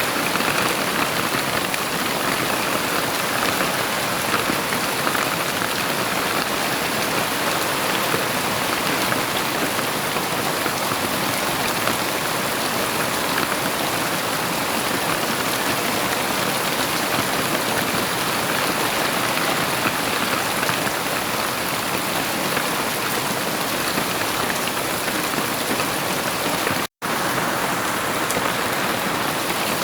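Heavy rain falling in a steady, even hiss, with no thunder. It cuts out completely for an instant near the end, then resumes.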